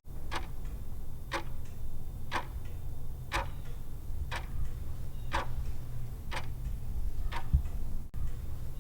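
Quiz countdown timer ticking, one tick a second, over a steady low hum.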